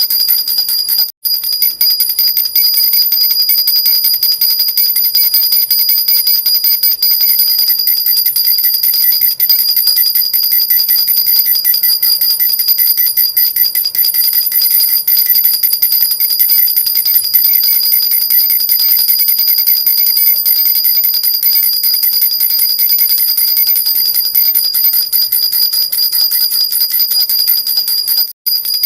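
Silver jhunjhuna, a metal baby rattle with small jingle bells, shaken continuously in a fast, even, bright jingling. It cuts out for an instant about a second in and again near the end.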